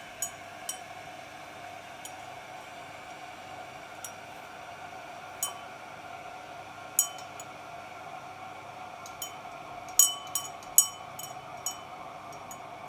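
Light clinks of kitchenware, about ten irregular taps of hard dishes or glasses knocking together, several in quick succession near the end, over a steady low hum.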